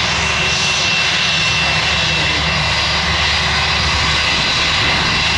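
Jet airliner engines running, a loud steady noise with a thin high whine held through it.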